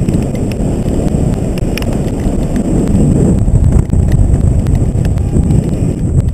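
Airflow buffeting the microphone of a paraglider in flight: a loud, unbroken low rumble, with scattered sharp ticks on top.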